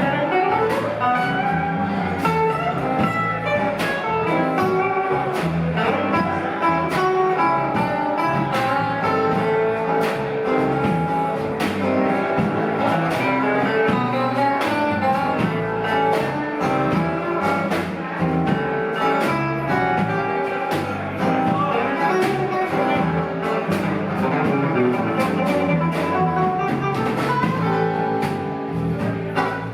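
Live rock band playing an instrumental jam, with guitar over bass and drums keeping a steady beat.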